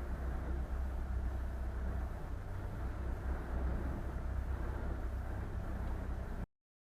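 Boat engine running with a steady low drone, which stops abruptly about six and a half seconds in.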